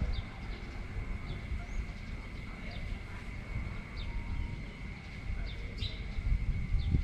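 Wind gusting against the microphone as an uneven low rumble, under a steady high insect drone and short falling chirps about once a second.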